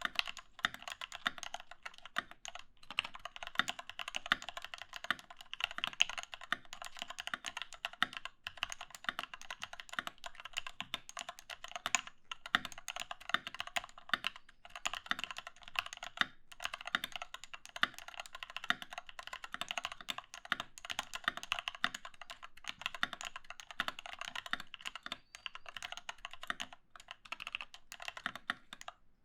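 Continuous fast typing on a Doro67 mechanical keyboard with lubed linear Cherry MX Retooled Black switches, 62g springs and XDA keycaps: dense, rapid key clacks with a few short pauses.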